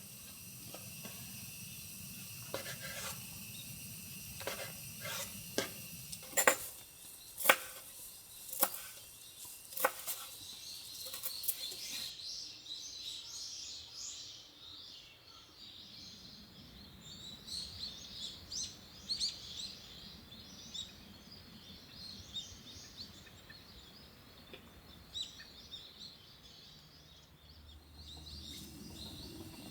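Small birds chirping and twittering in short, scattered calls through the second half. Before that, a run of sharp clicks or cracks over a steady high-pitched hiss.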